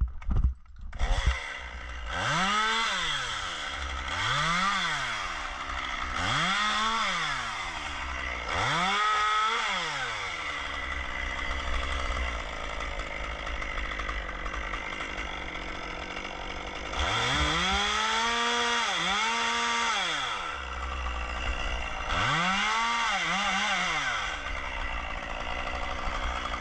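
Chainsaw running and being revved again and again, its pitch rising and falling with each squeeze of the throttle, with a steadier stretch in the middle and two quick double revs later. Two sharp knocks sound right at the start.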